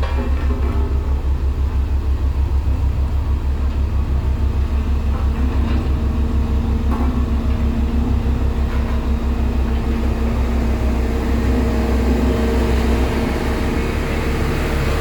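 Heavy road-building machine's diesel engine running with a steady, rapidly pulsing low drone; the deepest part of the drone drops away about two seconds before the end.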